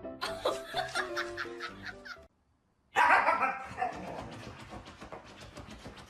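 Music for about two seconds, then a brief silence. Then a dog gives one loud bark and pants quickly, about five or six breaths a second.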